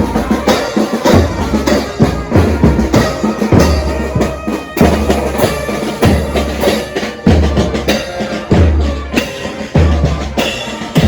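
Parade band music: a bass drum beating steadily about once a second with snare strikes between, under the band's instruments.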